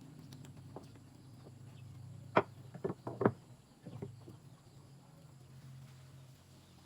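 A handful of sharp knocks, five in quick succession between about two and four seconds in, over a faint steady low hum.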